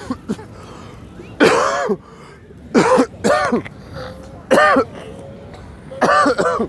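A man's voice making about five short, loud wordless vocal sounds in a row, rough and raspy, like throat clearing.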